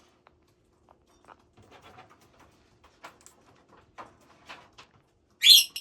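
Pet parrots making scattered short, soft calls and chatter, then one loud, shrill squawk near the end.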